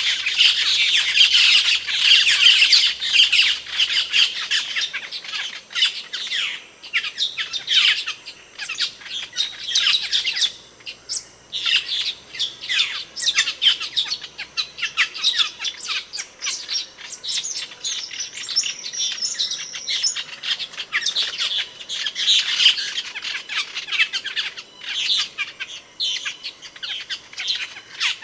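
Asian glossy starlings (cucak keling) calling: a dense run of rapid, sharp, overlapping chirps and squeaks, high-pitched, with a brief lull about ten seconds in.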